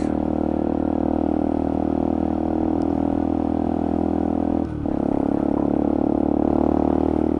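Motorcycle engine running at steady revs while riding, with a brief dip in revs about two-thirds of the way through before it settles at a slightly different pitch.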